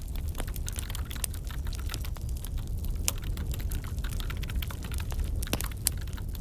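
Crackling wood fire: irregular pops and snaps over a low, steady rumble.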